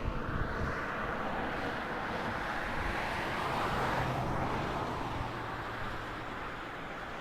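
Delta II rocket engines during launch, a steady rushing noise that swells slightly around the middle and eases off toward the end.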